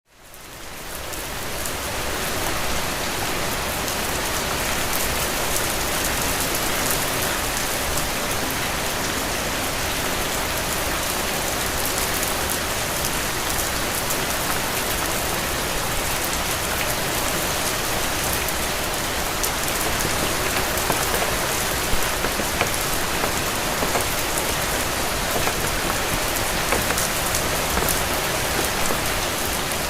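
Steady rain falling, with scattered ticks of individual drops; it fades in over the first two seconds.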